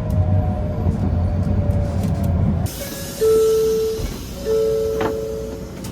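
Low rumble of a Sanyo Shinkansen Sakura train running, which cuts off abruptly a little under halfway through. A high hiss and two long beeps of the same pitch follow.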